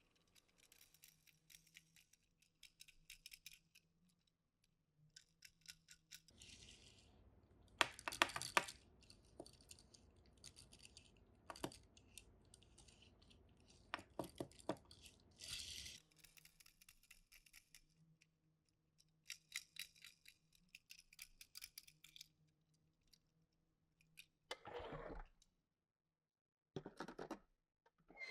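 Quiet handling noises of a small die-cast toy car and its packaging: scattered light clicks and taps, with a busier stretch of clicking and rustling in the middle and a few short rustles near the end.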